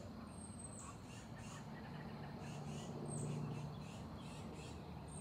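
Birds singing in trees, with a few short, very high, thin notes and softer repeated chirps over a low steady background rumble.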